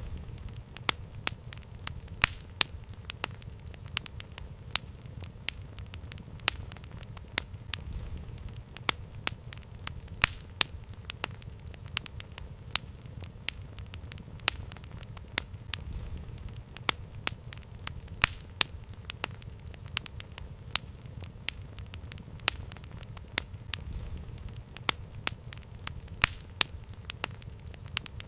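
Campfire crackling: frequent sharp, irregular pops and snaps over a steady low rumble of burning wood.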